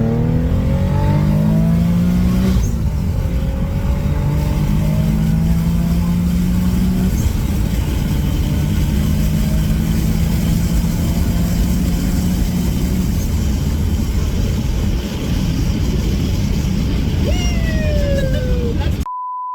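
Twin-turbo Infiniti G37 V6 at full throttle, its engine note climbing, dropping at a gear change about two and a half seconds in, then climbing again before settling to a steadier drone at speed. A short censor bleep cuts in right at the end.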